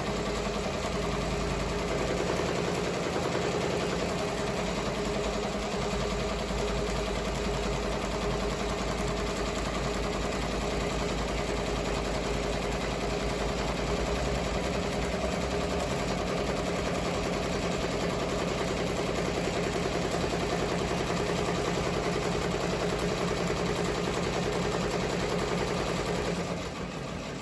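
Ricoma MT-1501 multi-needle embroidery machine stitching steadily, a fast even run of needle strokes that stops just before the end.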